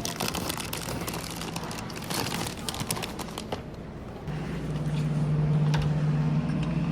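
Grocery store sounds: a run of clicks and rustles of items being handled, then a steady low hum coming in about four seconds in and staying louder.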